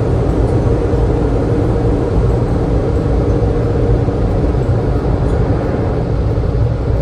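Loud, steady mechanical rumble with a constant hum, like a running vehicle or machine.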